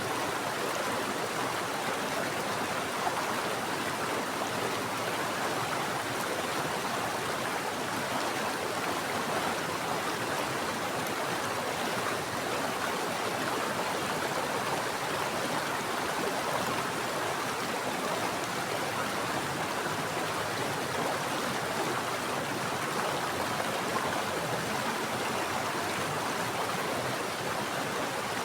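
Mountain stream running steadily over rocks: a continuous, even rush of flowing water.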